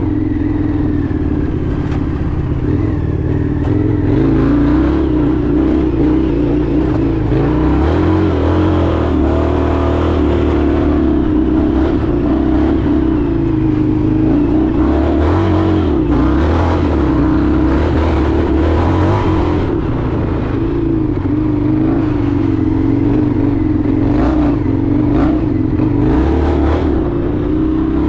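Indian FTR 1200's V-twin engine running under way, its pitch rising and falling a little as the throttle changes.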